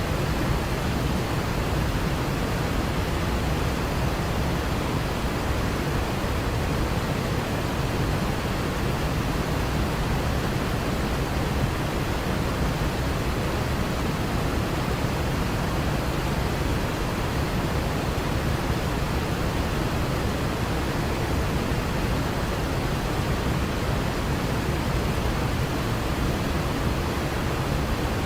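Waterfall: a steady, unbroken rush of falling water, heaviest in the low range, with no change over the stretch.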